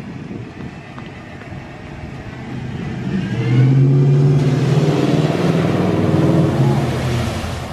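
Pickup truck engine revving as it drives through floodwater, building up about three seconds in and staying loud, with a rushing hiss of water thrown up by the tyres.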